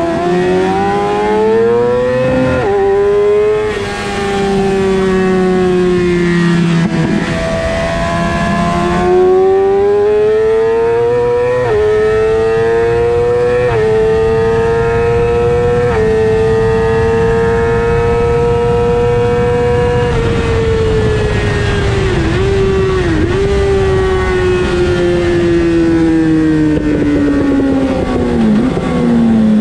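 Suzuki GSX-R600 inline-four engine heard from onboard at race pace, its pitch climbing through the gears with short steps at each shift, holding high on the straight, then falling away as the rider rolls off, with a few quick dips in pitch near the end. Wind rushes over the microphone throughout.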